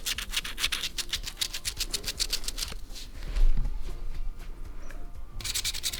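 Scratch cards being scratched off in quick, even strokes, about ten a second. The scratching stops about three seconds in, with a low bump during the pause, and starts again near the end.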